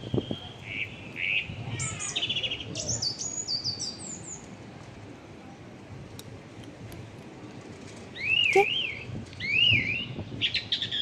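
Small songbirds chirping: quick runs of high chirps in the first few seconds, then two louder warbling calls that swoop up and down near the end.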